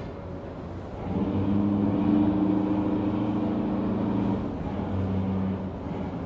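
A heavy engine or motor running with a steady low hum. It comes up about a second in and eases off a little past the middle.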